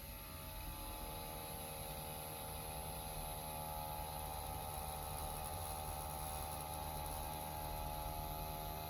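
CNC Q5 rotary tattoo pen with a 7-round-liner cartridge running at a steady speed: an even motor buzz over a low hum, starting just at the beginning, as the needle passes along a line on practice skin a second time to darken it.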